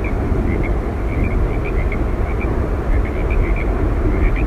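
Yosemite Falls: a waterfall's steady, loud rushing roar, deepest at the bottom, with many short high chirps scattered over it.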